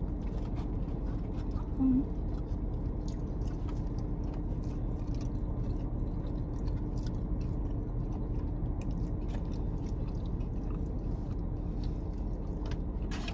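Close-up chewing of a chicken quesadilla taco, with small wet mouth clicks and soft crunches over a steady low hum. A brief low hum, like a short 'mm', comes about two seconds in.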